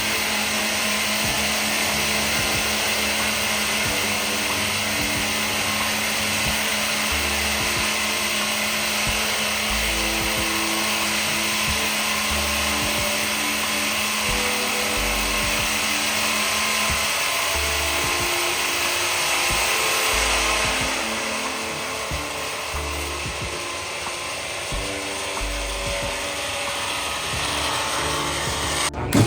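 A power tool running steadily on wood, its noise easing a little about two-thirds of the way through; a sharp knock comes at the very end.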